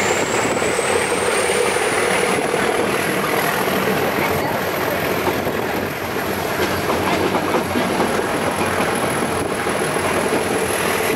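A narrow-gauge toy train running along, heard from inside a carriage at an open window: a steady rumble of wheels on the rails. A thin high whine rises in pitch over the first few seconds and then holds steady.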